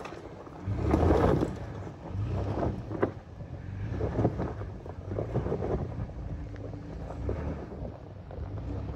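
Toyota FJ Cruiser's 4.0-litre V6 engine working under load as the 4WD crawls up a steep, rutted dirt hill, the note swelling and easing. Wind gusts buffet the microphone over it.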